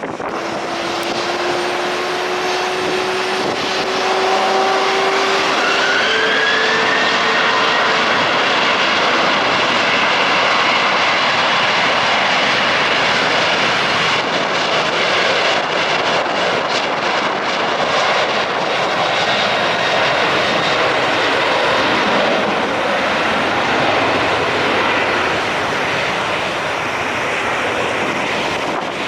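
Jet airliner's engines at high power: a rising whine over the first several seconds builds into loud, steady engine noise, which eases off over the last several seconds.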